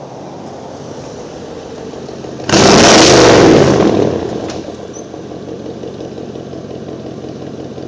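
Chevrolet 350 small-block V8 exhausting through 2¼-inch straight pipes with pencil tips, running steadily, then revved hard once about two and a half seconds in: a very loud blast of about a second and a half that falls back to the steady run.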